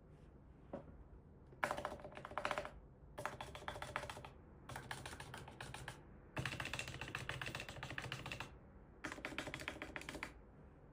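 Topre Realforce GX1 keyboard being typed on, its electro-capacitive Topre switches clacking. One keystroke comes first, then five quick runs of typing, each one to two seconds long with short pauses between.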